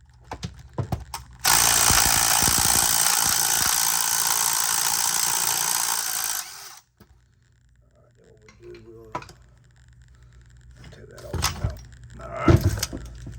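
A power tool runs steadily for about five seconds, starting about a second and a half in and cutting off abruptly. A few light metal taps come before it, and a couple of sharp knocks come near the end.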